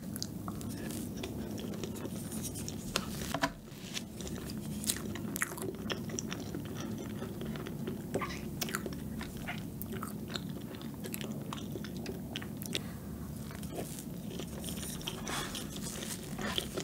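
Close-miked chewing of soft rose yogurt fresh-cream cake: wet mouth clicks and lip smacks, with a few louder smacks scattered through.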